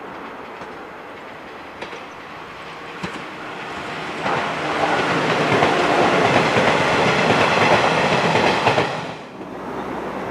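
A 115 series electric multiple unit approaching and passing close by, its rumble building and then loud with wheels clattering over the rail joints. The sound drops off suddenly about nine seconds in, leaving a quieter, more distant train rumble.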